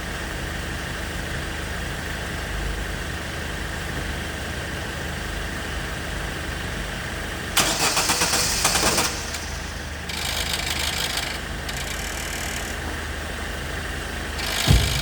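2006 Opel Zafira engine idling steadily, having just caught after the starter motor was tapped, which the mechanic takes as the sign of a faulty starter motor. A loud hiss comes in for about a second and a half midway, two fainter hisses follow, and a sharp thump sounds near the end.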